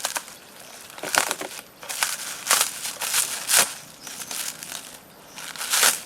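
A series of about seven separate crunching, crackling noises at irregular intervals, like something dry and brittle being crushed or handled.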